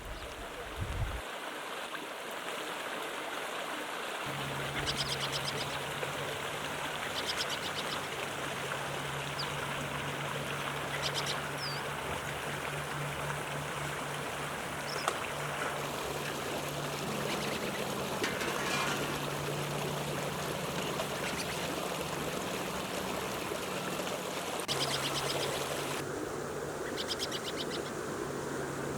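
Steady rush of running water, with short high bird chirps now and then and a low steady hum that starts about four seconds in.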